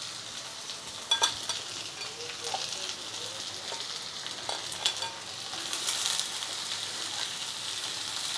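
Potato, brinjal and bean pieces sizzling in hot oil in a non-stick kadai while chopped cauliflower stalks are added to the pan. A few sharp clicks come about a second in and again near five seconds, and the sizzle grows a little louder around six seconds.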